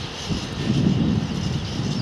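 Freight train of covered steel wagons rolling away on the rails, a low rumble that swells for a second or so and then eases.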